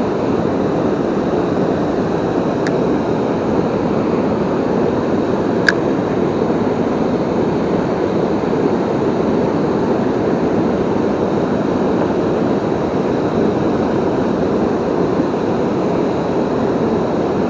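Steady rush of a river waterfall, an even, unbroken water noise, with two faint clicks about three seconds apart.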